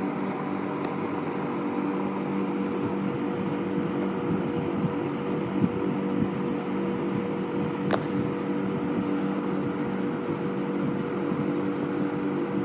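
1960s Air King PR20P 20-inch box fan running steadily on low: a hum with a metallic whirring from its aluminum paddle blades. A single sharp click about eight seconds in.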